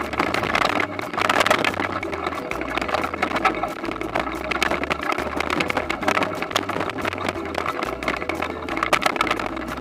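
Toyonoki potato harvesting machine running: a steady engine with dense, irregular rattling and clattering from the machine's working parts.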